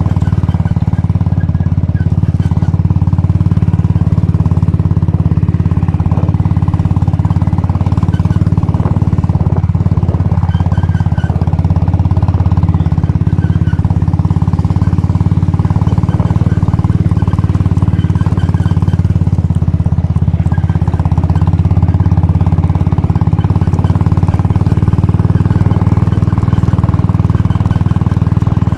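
Royal Enfield Bullet's single-cylinder four-stroke engine running steadily, a low, even drone with no revving.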